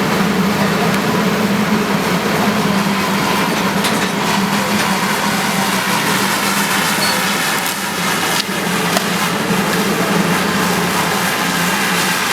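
An engine running steadily with a constant low hum, with a couple of brief knocks about two-thirds of the way through.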